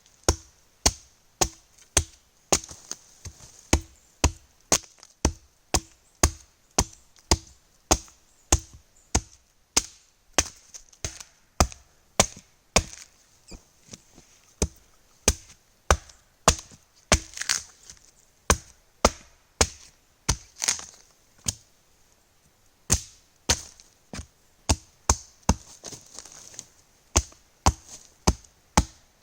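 Hatchet chopping into a pine log, repeated sharp blows about twice a second with a few short pauses, carving a handle out of the wood.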